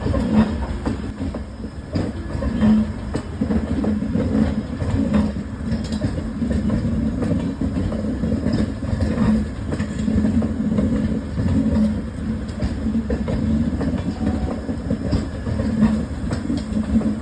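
Passenger express train running on the track: a steady rumble with the clickety-clack of wheels over rail joints and occasional sharp clicks.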